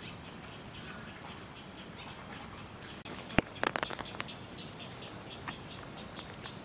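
Steady rain falling, with one sharp tap a little past three seconds in and a quick run of lighter taps and ticks just after it.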